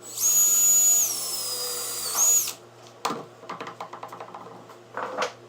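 A power drill's high whine. It slows and drops in pitch partway through as it bears into the wood, speeds back up briefly, then stops after about two and a half seconds. A few knocks and clatter of wood and tools being handled follow.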